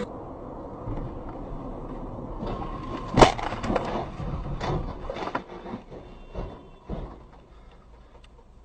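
A vehicle collision: one loud, sharp crash about three seconds in, followed by a scatter of smaller knocks and clatter that die away, over steady road noise.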